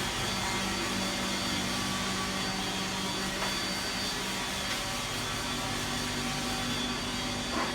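Vacuum machine running steadily, a constant motor hum with a high whine above it.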